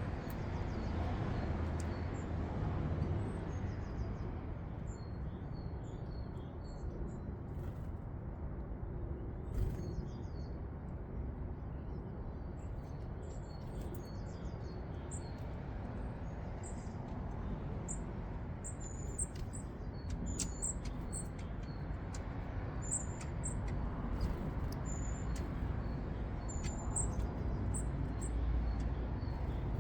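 Small garden birds calling with short, high chirps, more often in the second half, over a steady low rumble of outdoor background noise, with a few sharp clicks.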